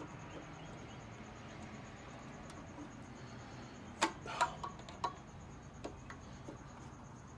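Screwdrivers clicking and tapping against the plastic primer bulb housing of a lawnmower engine, prying to push the bulb out: a handful of sharp clicks about four to five seconds in, with a few lighter ticks either side, over a faint low hum.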